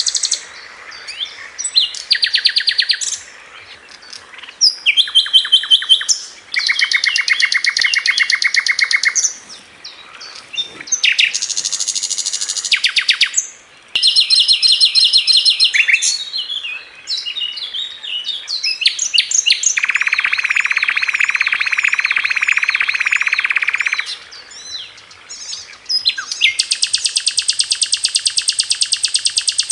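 Sikatan londo flycatcher singing its 'tembakan' song: a run of separate high, very fast rattling trills of rapidly repeated notes, each phrase lasting a second or a few seconds with short gaps between. Near the end one long, even trill carries on without a break.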